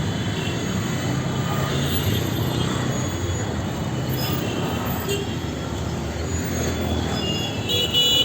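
Steady noise of busy Indian street traffic, with engines running and faint high squeals coming and going. Near the end a vehicle horn starts honking in quick short toots.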